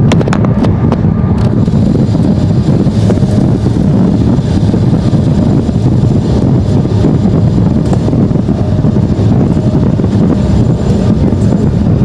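Steady roar of an airliner's jet engines and rushing air during descent, heard from inside the cabin, with a few light clicks in the first second or so.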